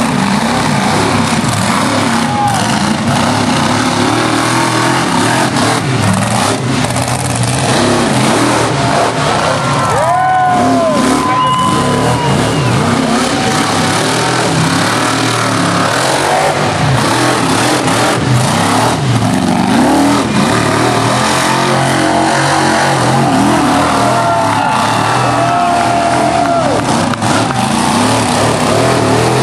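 Monster truck engines revving hard over and over, their pitch rising and falling, over a constant loud din.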